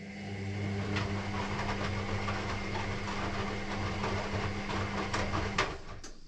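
Electrolux EW6S404WU ecobubble washing machine running a motor or pump early in its cycle: a steady low hum with a noisy wash and a few clicks over it, cutting off suddenly near the end.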